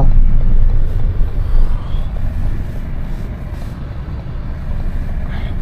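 Low, steady rumble of a semi truck's engine and tyres heard from inside the cab while driving, easing off a little over the first few seconds.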